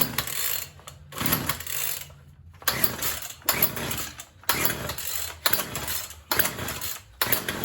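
A small Craftsman two-stroke chainsaw being pull-started: about seven quick recoil-starter pulls, roughly one a second, without the engine catching and running. The saw has sat unused and was primed with a little gas down the carburettor, which may not be enough fuel for it to start.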